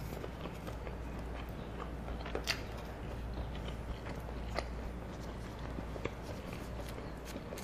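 Close-miked eating: chewing with scattered soft mouth clicks, a few sharper ones, over a steady low hum.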